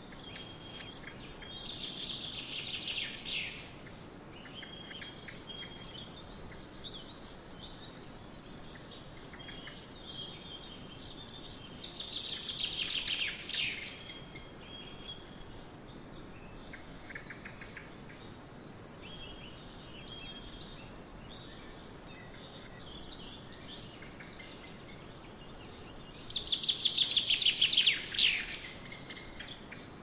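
A songbird repeats a fast trilled song that falls in pitch, three times, each phrase lasting two to three seconds; the last is the loudest. Softer chirps from other birds come in between, over a faint steady hiss.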